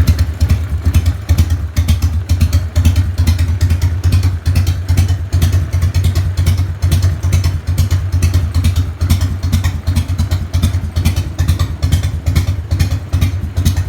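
Harley-Davidson Fat Boy's V-twin engine idling through a Screaming Eagle dual exhaust, a steady, uneven pulsing beat with no revving.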